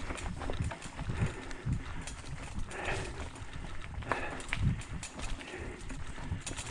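Mountain bike going over rocky singletrack: irregular knocks, thumps and rattles as the tyres and frame hit loose rocks.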